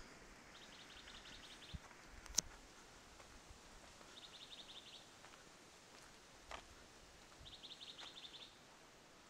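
A small songbird singing a short, fast trill three times, a few seconds apart, over faint outdoor background. A sharp click about two seconds in is the loudest sound.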